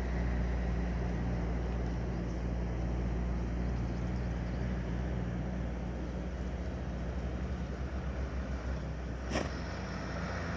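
A vehicle engine idling steadily, a low even hum, with one short click about nine seconds in.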